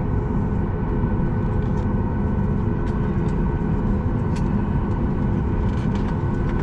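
Steady low cabin drone inside a Boeing 737 MAX 8 taxiing in to its gate after landing, with a few faint clicks.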